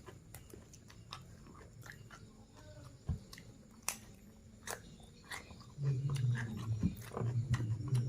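A person chewing and biting food close to the microphone, with many sharp wet clicks from the mouth; the chewing gets louder and heavier from about six seconds in.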